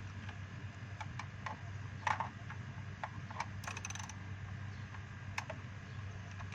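Scattered light metallic clicks and taps of a hand tool working the 10 mm ignition coil hold-down bolts loose, over a steady low hum.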